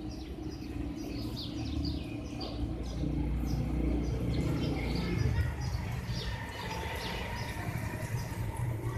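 Small birds chirping in the background, many short chirps throughout, over a steady low hum.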